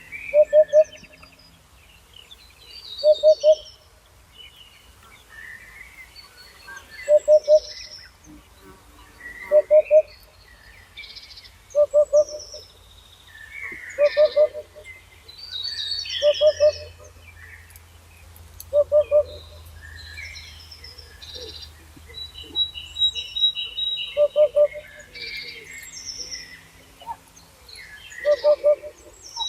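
Birdsong: one bird repeats a low call of two or three quick notes every two to three seconds, while several smaller songbirds chirp and trill higher over it.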